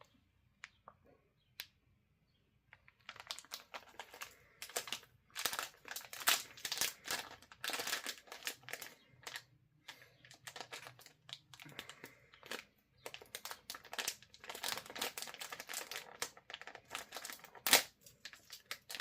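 Plastic candy packaging crinkling as it is handled and opened: a few isolated clicks at first, then dense, irregular crinkling from about three seconds in.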